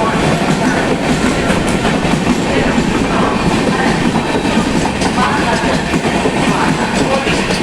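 Tejas Rajdhani Express passenger train running through the station at speed without stopping: a steady loud rush with the coach wheels clattering over the rail joints.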